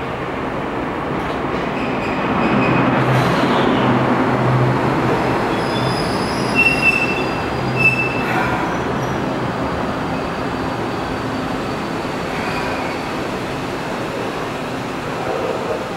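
Enoshima Electric Railway electric train running on the rails with a steady rumble and low hum. Its wheels give two short high squeals, about six and a half and eight seconds in.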